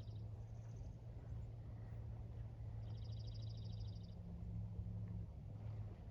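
A small bird sings a rapid, evenly pulsed high trill of about a second in the middle, over a steady low hum of outdoor ambience.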